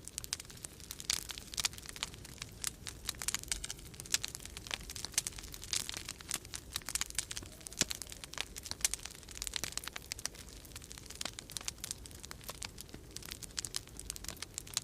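Wood fire in a fireplace crackling, with many irregular sharp pops and snaps, over a low steady rumble of storm wind.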